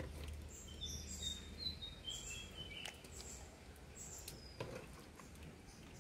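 Small birds chirping, with short high notes and little falling whistles, over a faint low background hum. A single light knock comes about three-quarters of the way through.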